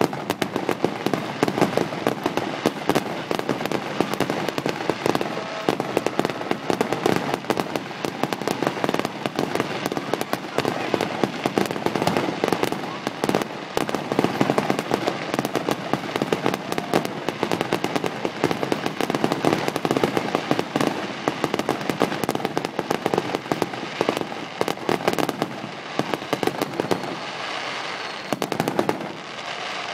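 Fireworks display in full barrage: a dense, unbroken rattle of crackling and bangs, with a whistling glide or two near the end.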